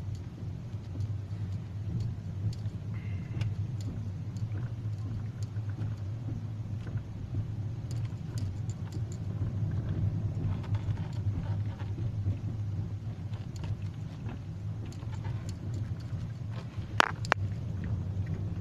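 Inside a Hyundai i40's cabin on the move: a steady low drone of road and engine noise, with scattered light clicks and one sharper click about seventeen seconds in.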